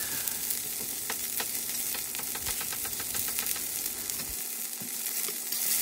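Sliced banana peppers, poblanos and jalapeños sizzling in hot oil in a wok: a steady hiss with many small crackles.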